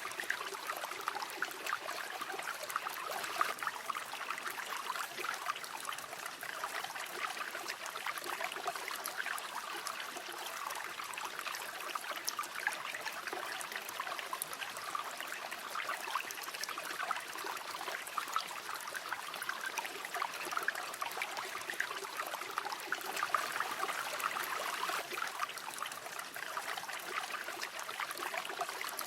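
A flowing river, its water running and burbling steadily over stones with fine trickling and splashing.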